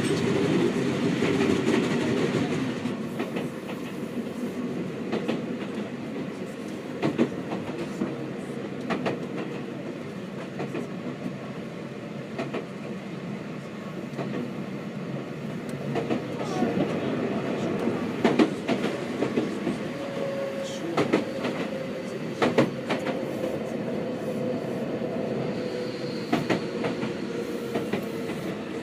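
Inside a Seibu 6000-series electric train under way: steady running rumble with scattered wheel clicks over rail joints. In the last third a motor tone from its Hitachi GTO VVVF drive slowly falls in pitch as the train slows.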